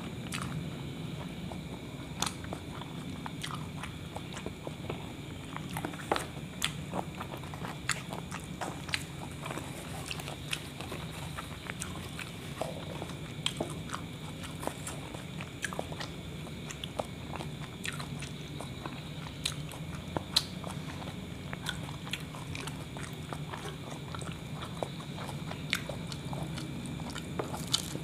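A person chewing and biting into a kebab wrap of meat, vegetables and sauces, with many short, irregular wet mouth clicks. A steady low hum runs underneath.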